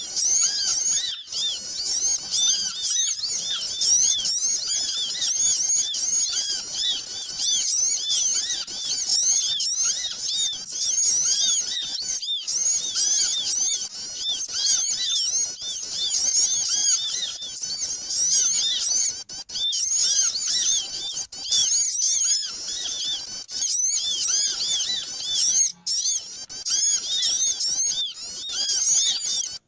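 Noisy chorus of many small birds chattering at once: rapid, overlapping high chirps without a break, as used in a bird-lure call to draw in small birds.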